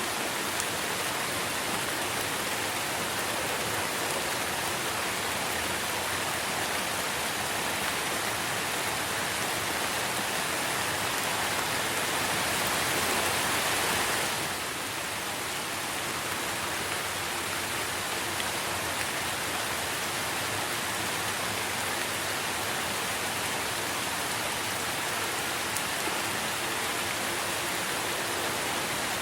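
Steady rain falling on trees and foliage, a dense even hiss that grows a little heavier about halfway through, then eases back.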